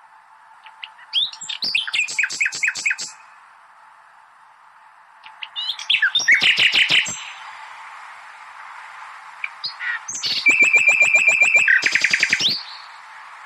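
Nightingale singing three loud phrases of rapid repeated notes and trills, the last holding a fast trill on one pitch, with pauses between them. A steady low hiss runs underneath.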